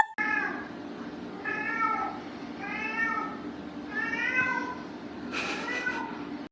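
A cat meowing repeatedly: about five short meows, each rising and falling in pitch, over a steady background noise.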